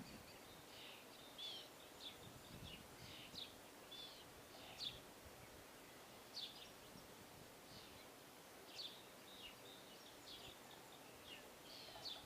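Small birds chirping faintly, with a steady scatter of short, high chirps about one or two a second over quiet outdoor background noise.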